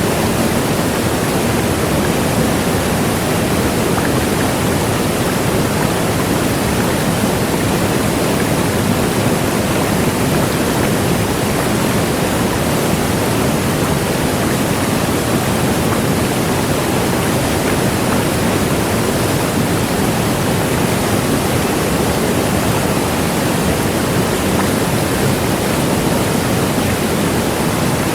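Large waterfall: water falling heavily into a pool as a steady, loud rushing roar, unbroken and unchanging.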